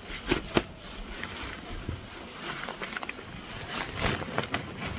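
Rustling of clothing and sleeping gear being handled, with a few short scuffs about half a second in and again around four seconds in.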